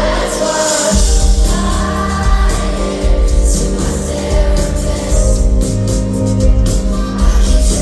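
Live pop concert music: a female singer and band, with many voices from the crowd singing along.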